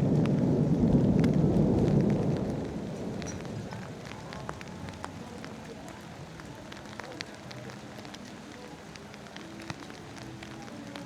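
A rumble of thunder dying away over the first few seconds, giving way to steady rain with scattered individual drops ticking close by.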